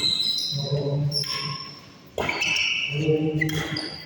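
Two sharp badminton racket hits on a shuttlecock, about two seconds apart, each with a short ringing echo in a large hall, with voices faintly in between.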